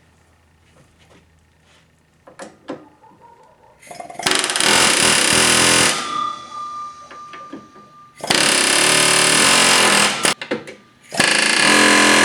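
A power tool working on the riveted ball joint of a steel upper control arm, run in three bursts of about two seconds each, with a thin fading whine after each burst.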